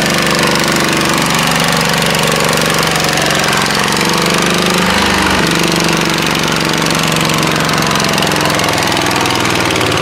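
Tractor engine running hard with a steady, knocking firing beat; its pitch dips and recovers briefly about halfway through.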